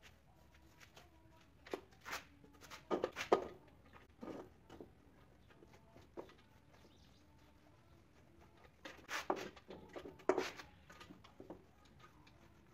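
Irregular short knocks and taps, bunched in two clusters about two seconds in and about nine seconds in, over a faint steady background.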